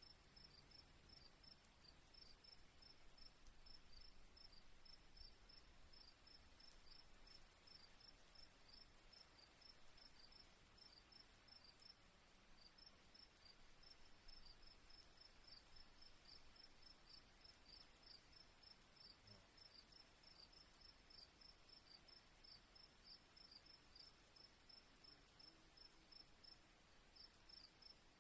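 Crickets chirping faintly: a steady high trill with rhythmic chirps over it, several a second, that pause briefly about halfway through and again near the end.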